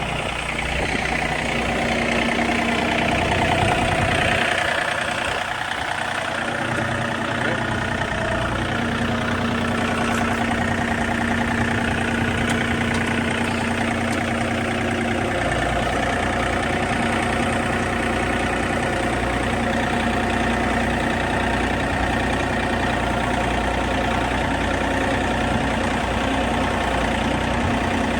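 John Deere tractor engine running steadily while maneuvering. The note rises and grows louder a few seconds in, eases around five to six seconds, then holds even.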